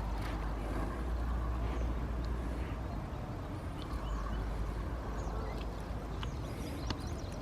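Steady outdoor background: a low rumble under an even rushing noise, with a few faint short chirps and clicks near the end.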